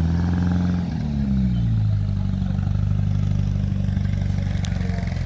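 An engine held at raised revs, its note falling back between one and two seconds in, then running steadily.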